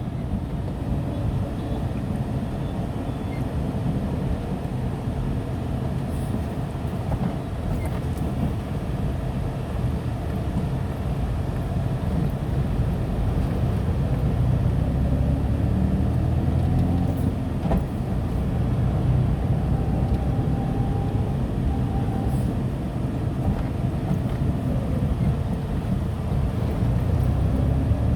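Steady low drone inside the cabin of a Tata Nano while it is driven, engine and road noise, with a few faint ticks.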